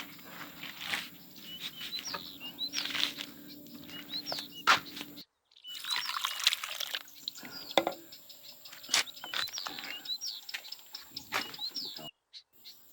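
Small birds chirping over and over in short hooked calls, mixed with scattered clicks and knocks and a steady low hum; the sound cuts out briefly twice.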